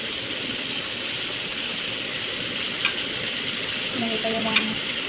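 Chicken and vegetable strips sizzling steadily as they stir-fry in a pan, with two short sharp clicks, one around the middle and one near the end.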